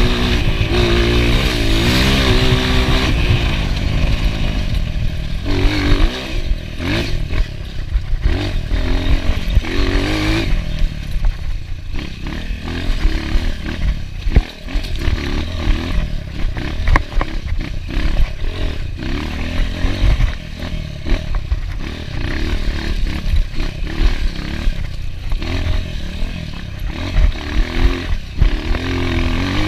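Enduro motorcycle engine revving up and down repeatedly as it is ridden, with scattered rattles and knocks throughout.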